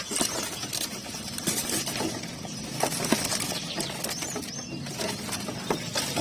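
Many caged songbirds chirping and calling at once, with scattered clicks and knocks.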